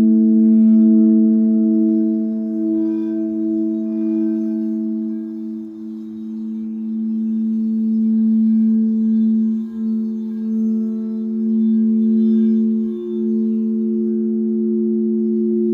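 Singing bowls sounding together in a sustained drone of several steady tones that waver and pulse in loudness.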